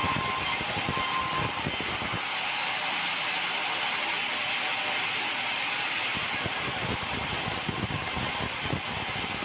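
Sawmill bandsaw machinery running with a steady, noisy hiss; the sound shifts about two seconds in, losing some of its low rumble.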